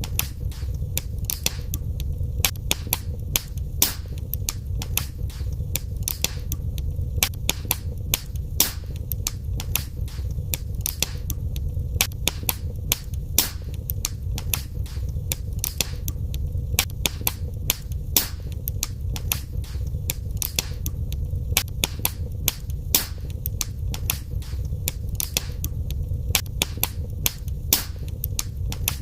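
Wood fire burning in a fireplace, crackling with frequent sharp pops and snaps, several a second at uneven intervals, over a steady low rumble of the flames.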